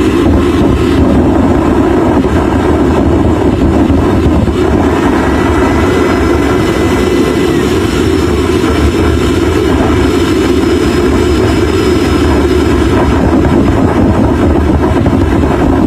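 Homemade jet engine running loudly and steadily. A thin whine rises about five seconds in, holds, and falls away a few seconds later.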